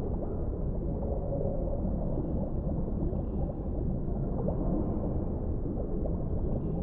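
Deep-sea underwater ambience: a steady low rumble with faint, brief gurgling sounds over it.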